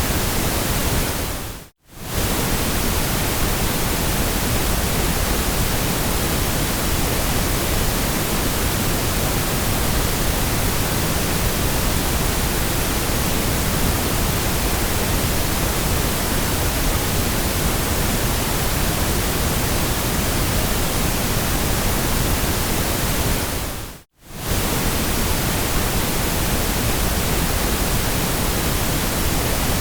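Steady generated white noise, an even hiss spread across all pitches, dropping out briefly twice: about two seconds in and again near the end.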